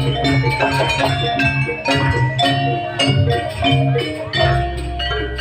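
Javanese gamelan music for a jaranan dance: rapid struck bronze metallophone notes ringing over a steady drum beat.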